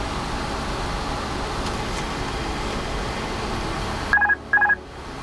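Steady background rush in an Airbus A330 cockpit. About four seconds in it gives way to two short, clean electronic beeps in quick succession: the master warning chime.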